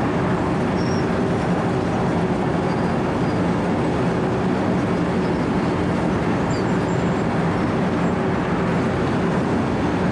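Compact 4-foot cold milling machine, a Wirtgen W 120 CFi, running steadily under load as its cutting drum grinds asphalt: a constant diesel engine drone under a dense grinding noise.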